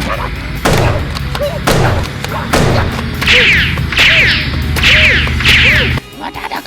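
Added cartoon sound effects over a backing track: three falling whooshes, then four quick bright zaps in a row. The backing track cuts off about six seconds in.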